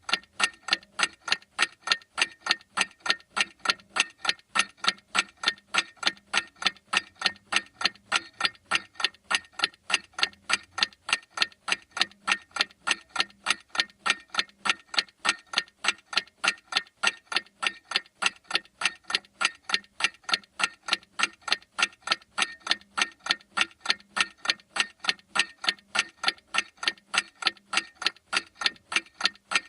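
Clock ticking steadily: sharp, evenly spaced ticks, a few every second, with no change in pace or loudness.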